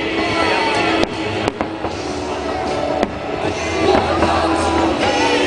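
Fireworks bursting with a few sharp bangs over loud music playing throughout.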